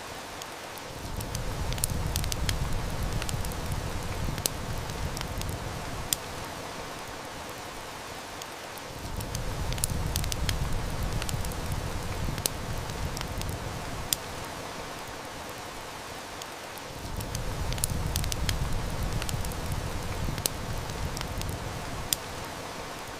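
Steady heavy rain hiss with the sharp snaps and pops of a wood fire crackling. A low rumble of distant thunder swells up and dies away three times.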